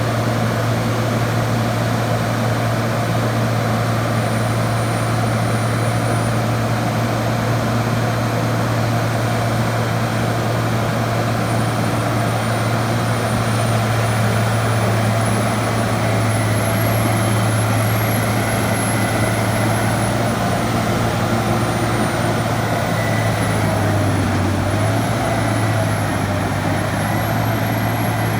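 Diesel engine of a Morgan SX706SB hydrostatic grapple log skidder running steadily, with a thin high whine that wavers up and down in pitch through the second half.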